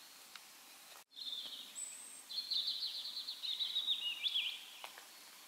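Songbird singing: quick high trills and short chirps that begin about a second in, over faint outdoor background.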